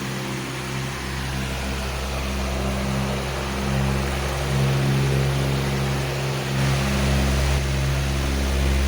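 A powerful electric fan running steadily: a constant rush of air over a low motor hum, swelling slightly now and then.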